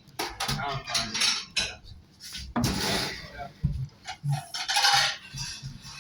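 Cutlery clinking and scraping against a plate during eating, with many short clicks and a longer scrape about two and a half seconds in.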